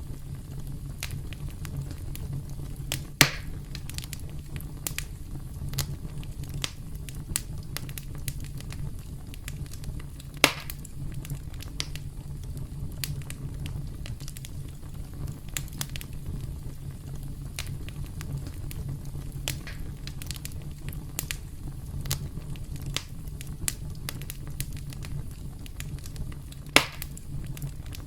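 Campfire crackling: a steady low rumble of flames with scattered sharp snaps and pops of burning wood, three louder pops standing out about 3, 10 and 27 seconds in.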